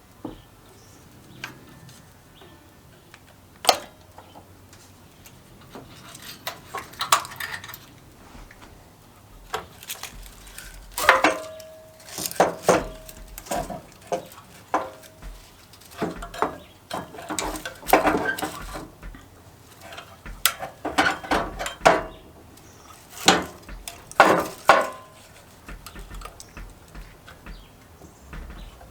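Small metal parts and hand tools clinking and clattering as they are handled and set down on a hard surface. There are irregular sharp knocks, busier from about ten seconds in, and a few of them ring briefly like struck metal.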